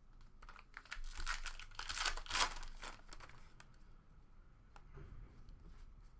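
A trading-card pack wrapper being torn open and crinkled, a rough tearing rustle of about two seconds, loudest near the middle, followed by faint handling clicks.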